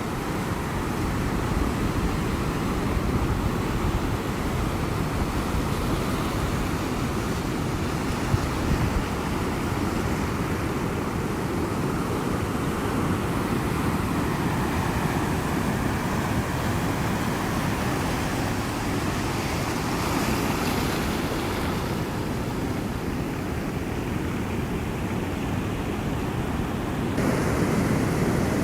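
Ocean surf: waves breaking and washing on a shore as a steady, deep rushing noise, with one wave swelling brighter about two-thirds of the way through. Near the end the sound jumps abruptly louder.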